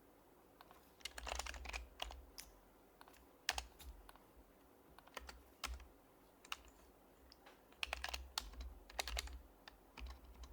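Typing on an HHKB Professional HYBRID Type-S keyboard with silenced Topre capacitive switches: soft, muffled keystrokes in irregular bursts of quick key presses between single taps, each with a dull low thud.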